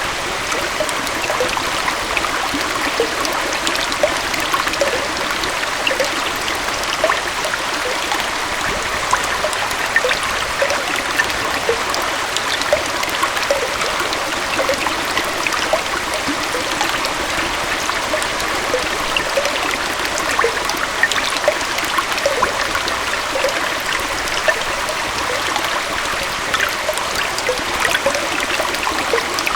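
Small waterfall and stream flowing steadily, an even rush of water with many small gurgles and trickles.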